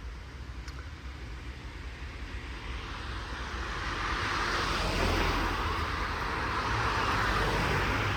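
A car passing on the road: tyre and engine noise growing louder from about three seconds in and staying loud to the end.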